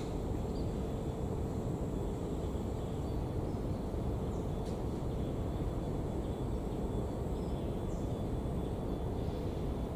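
Steady heavy rain, a dense even noise with no breaks, with a faint steady hum beneath it and a couple of faint high chirps.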